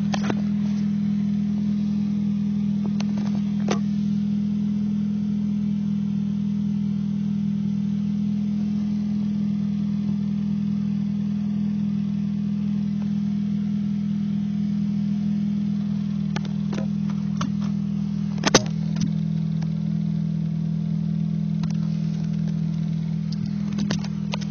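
Nissan Sentra SE-R Spec V's 2.5-litre four-cylinder, with a catless exhaust, idling steadily as a low hum, with a few short clicks, the sharpest about three-quarters of the way through. This is the idle at which the whole car shakes, which the owner takes for a mechanical imbalance rather than a misfire.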